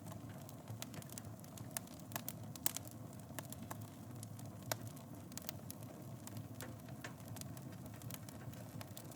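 Wood fire burning in a fireplace: a steady low rumble of flames with frequent irregular crackles and pops, a couple of sharper pops about a third and halfway through.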